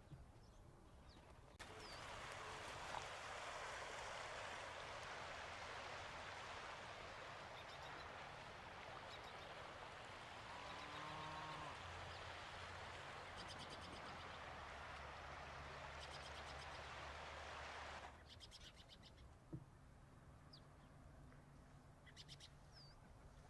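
Small birds chirping now and then, with a steady rushing hiss that cuts in about two seconds in and stops abruptly near the end, and a short pitched call around the middle.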